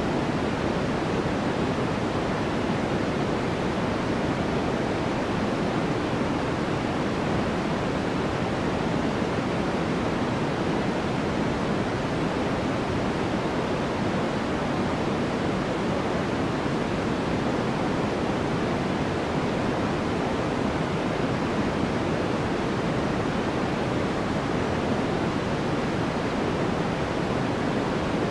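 Steady synthetic noise with no changes, weighted toward the low and middle range rather than bright hiss, like a rushing waterfall.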